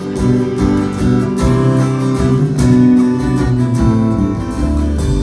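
Acoustic guitar strummed steadily in an instrumental passage of a live folk song, with held chords.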